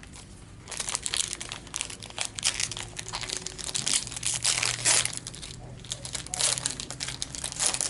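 Crinkly foil trading-card pack wrapper being handled and crumpled, with many quick sharp crackles. It is typical of the next pack being torn open.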